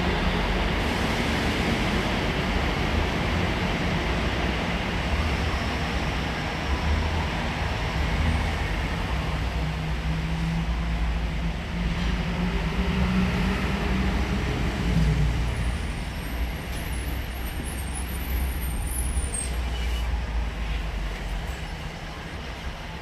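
A steady vehicle engine rumble, with a hum that rises and then drops away about fifteen seconds in.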